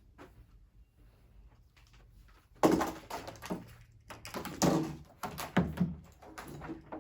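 A run of knocks and thuds, like doors or cupboards being handled in a small room, starting about a third of the way in.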